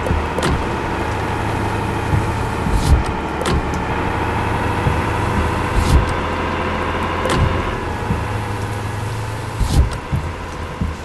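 Truck engine running steadily on the move, a constant low drone with a steady whine above it, broken by irregular knocks and clatters from the truck every second or two.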